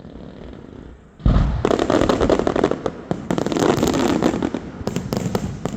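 Fireworks: a sudden boom about a second in, followed by a dense crackle of many rapid small pops lasting several seconds, with a few louder cracks near the end.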